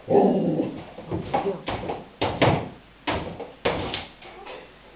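A dog pawing and pushing at a bin to get at a ball behind it: a brief scuffle, then about seven short, sharp knocks and scrapes at irregular intervals.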